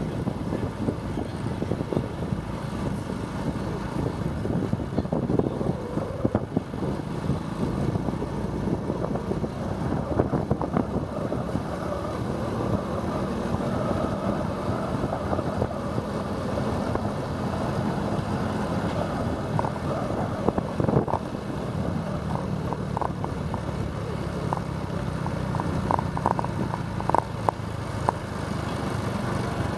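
Motorbike engine running steadily while riding, with wind and road noise on the microphone. A few short sharp clicks come in the last third.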